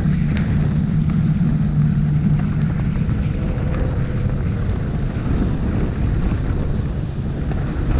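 Low engine hum of a motor vehicle, strongest in the first few seconds and then fading away, over a steady rushing noise with wind buffeting the microphone.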